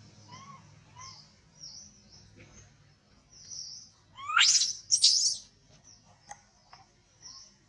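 Small birds chirping in the trees, with two loud shrill calls a little past halfway, each rising sharply in pitch.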